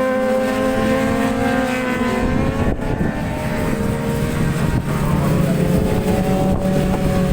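Racing motorcycle engines running at steady, moderate revs, their pitch slowly dropping in the first few seconds, then a second engine holding a lower, steadier note. Wind rumbles on the microphone underneath.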